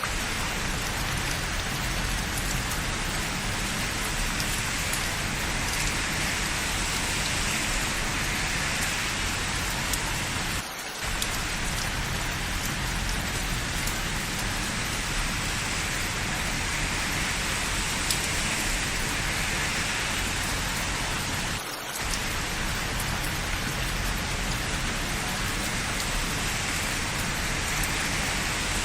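Steady rain falling, an even wash of noise that dips briefly twice, about eleven seconds apart.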